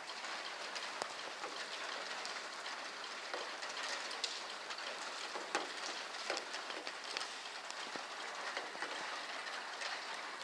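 Heavy rain falling steadily, with many irregular sharp ticks of drops striking hard surfaces close by.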